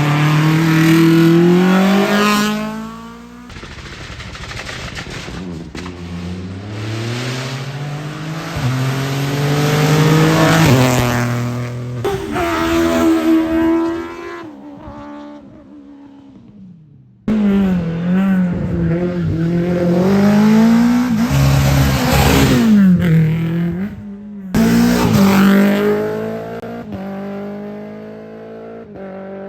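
Race cars accelerating hard, engines revving up and dropping back through gear changes as they pass, in several short clips joined with abrupt cuts.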